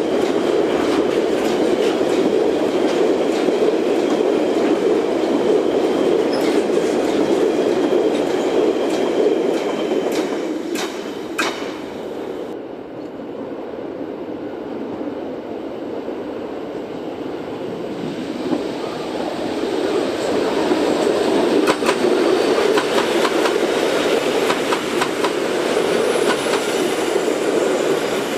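Loaded car-carrier freight wagons rolling past, wheels clattering over the rail joints, with a few sharp clanks before the train's end goes by. Then an EN57AL electric multiple unit comes in and passes through, growing louder as it nears and fading away near the end.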